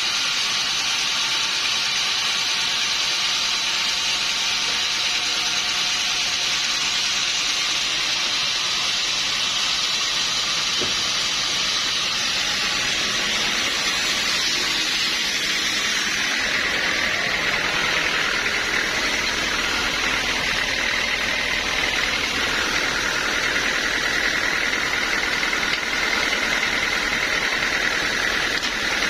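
Sawmill saw running through a log: a steady, hissing cutting noise. About halfway through its high whine drops lower as a heavier low hum comes in.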